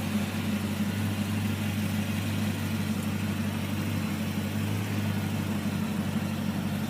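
Morgan Plus 8's Rover V8 engine idling steadily.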